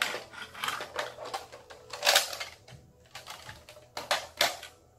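Plastic clicks, knocks and rattles from handling a Nerf Recon CS-6 blaster and its parts, irregular, with the sharpest knocks about two seconds in and twice near the end.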